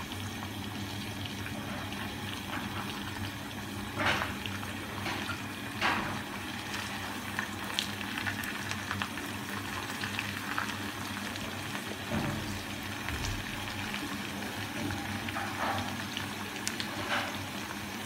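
Egg-laced beef-mince kababs frying in a pan of bubbling oil, a steady sizzle, with a few short knocks and scrapes of a silicone spatula against the pan as the kababs are turned.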